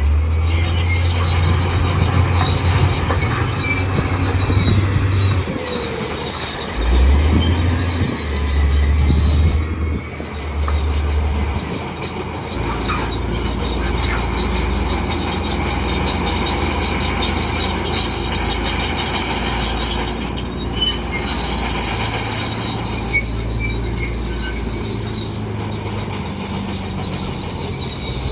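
Bulldozer working, its diesel engine rumbling under a steady squeal and clatter from the steel tracks. The low engine rumble is heaviest in the first dozen seconds, then settles to a steadier run.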